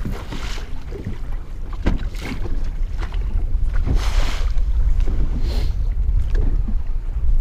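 Wind rumbling on the microphone aboard a boat on rough water, with irregular splashing surges of water against the hull.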